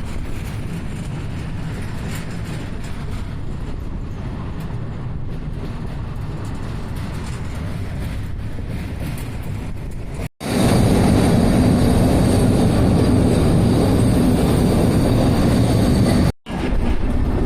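Passenger train running along the track, a steady rumble of wheels and carriage noise heard from on board. It cuts out abruptly twice, about ten seconds in and near the end, and the stretch between the cuts is louder.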